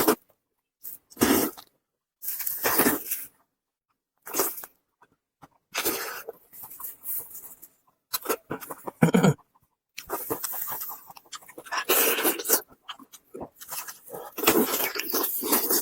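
Close-miked eating sounds: a person biting and chewing braised pork elbow with its skin, with loud, irregular mouth and smacking noises and short silent pauses between them.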